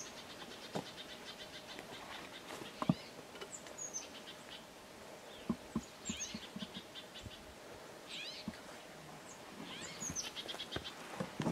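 Birds singing: phrases of rapid high chirps in trills and short down-slurred whistles, repeated throughout. Scattered soft knocks and scuffs of footsteps on rock come and go underneath.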